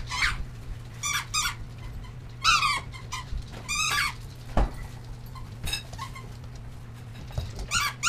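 Pet animals squeaking: short, high squeals, about six of them spread across the few seconds, each bending in pitch.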